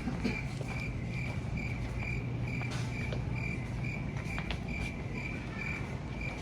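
Crickets chirping in an even, steady rhythm of a little over two chirps a second, over a low steady hum.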